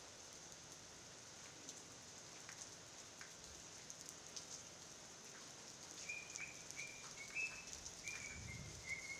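Light rain falling steadily, a soft hiss with scattered drop ticks. From about six seconds in, a bird calls in a run of short, high notes.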